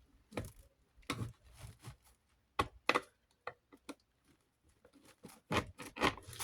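Irregular clicks and knocks of a small socket tool and metal fan parts being handled while a hex-head screw is worked loose on a desk fan's motor housing.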